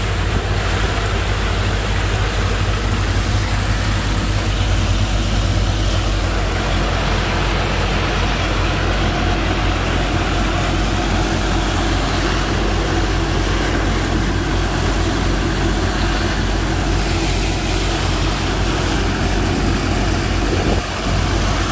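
Engine of a sand-pumping boat running steadily under load, driving the pump that sends sand and water down the pipeline.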